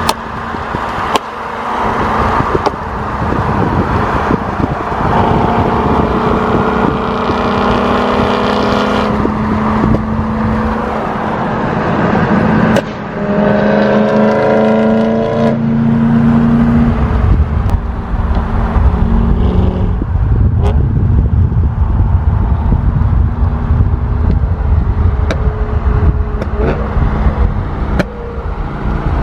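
BMW M3's S65 V8 through a Valvetronic aftermarket exhaust. It revs up hard twice with a rising engine note, then settles into a low rumbling burble. Sharp gunshot-like pops crack through it, which come from the pop-and-burble tune.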